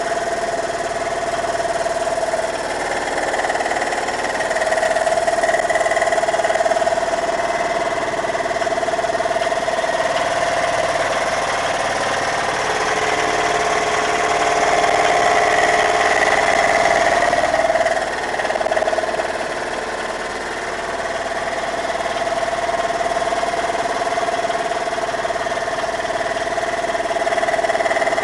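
Boat engine running steadily, with its pitch wavering slightly about halfway through.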